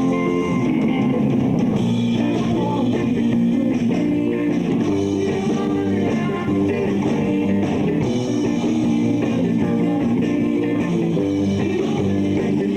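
Rock band playing live, with electric guitars to the fore.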